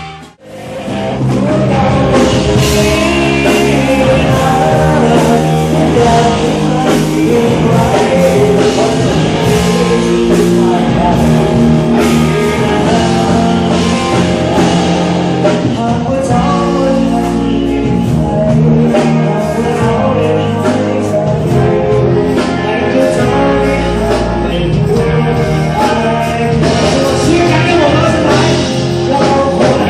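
Band playing a rock song with a singer, guitar and drum kit. The sound drops out briefly just at the start, then runs on at full level.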